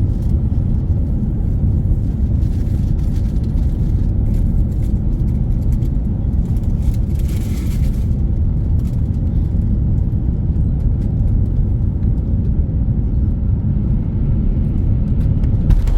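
Steady low rumble of an Airbus A350-900's engines and airflow heard inside the cabin, with a brief hiss about halfway through.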